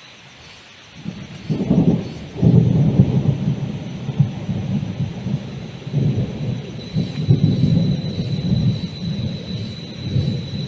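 Heavy rain falling steadily, with a long rolling thunder rumble that breaks in about a second in and keeps swelling and fading.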